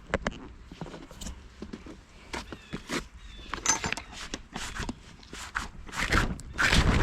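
Footsteps with irregular knocks and rustling as someone walks and handles things; the loudest rustling comes near the end.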